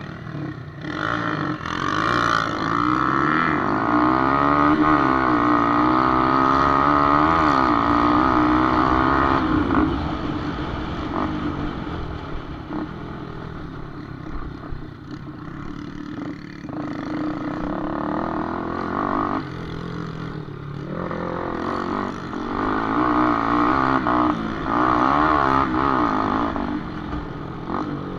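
Small-capacity motorcycle engines revving hard on a dirt track, their pitch climbing and falling as riders open and close the throttle. The sound is loudest for the first ten seconds or so, drops back, then builds again in the last third.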